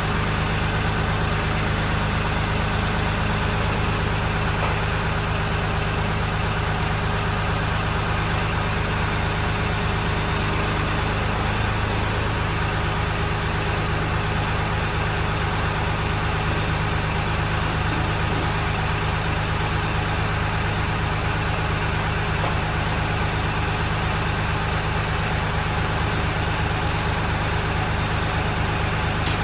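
A machine running steadily with a low, even hum that holds unchanged throughout.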